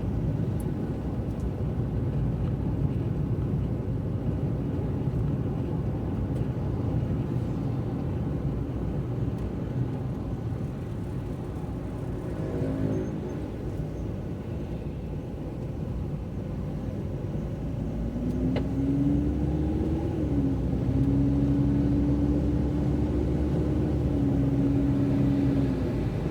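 Car driving on a wet road: a steady low rumble of road and engine noise. About two-thirds of the way through, an engine note rises and then holds steady for several seconds before dropping away near the end.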